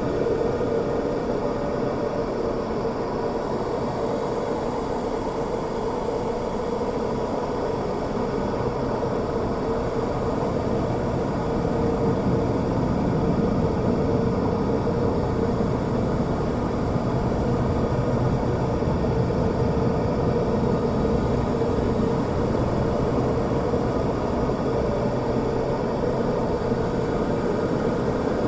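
Steady whirring noise with a constant hum, unchanging and without any sudden sounds.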